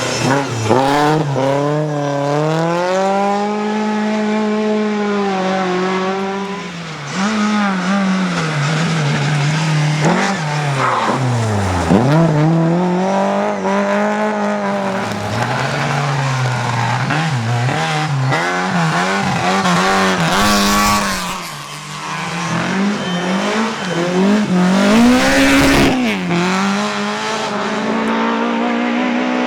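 Rally car engine driven hard, its pitch climbing and dropping again and again through gear changes and corners, with tyre squeal. There are two short rushes of noise, about twenty and twenty-five seconds in.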